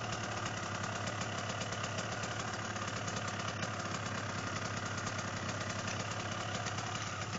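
Motocross bike engine idling steadily with a fast, even beat.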